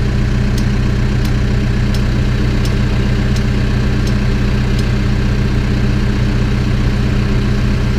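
Backhoe's diesel engine running steadily at a constant, idle-like speed, with a faint tick repeating about every 0.7 seconds.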